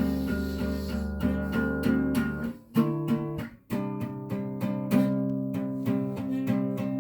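Background music: acoustic guitar picked in a steady rhythm, with a brief break a little under halfway through before the playing resumes.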